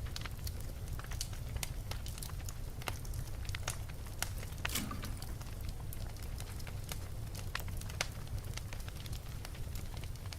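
Wood fire burning in a fireplace: irregular crackles and snaps over a steady low rumble of the flames, with one stronger pop a little under halfway through.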